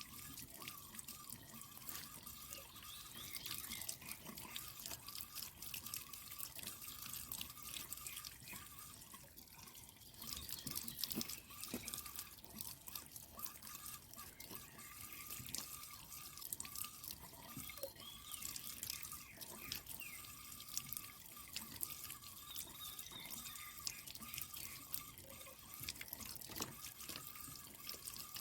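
Water dripping and trickling, many small drips and splashes one after another, while the stream-fed water tank's filter is being cleaned.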